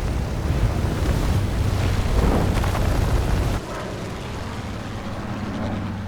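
Loud, deep rumbling roar of action-film sound effects, cutting abruptly to a quieter low rumble about three and a half seconds in.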